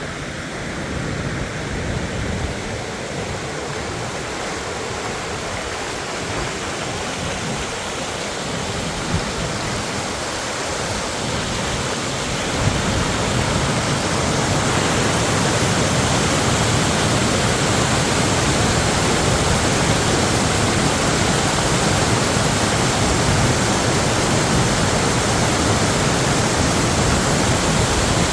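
Steady rush of water, growing louder about halfway through.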